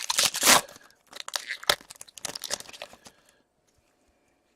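Trading card pack wrapper being torn open and crinkled: a loud rip in the first half second, then rustling and crackling that dies away after about three seconds.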